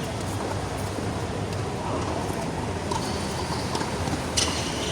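Steady background rumble and hiss at a tennis court, with a faint click about three seconds in and a sharp knock with a short ring about four and a half seconds in.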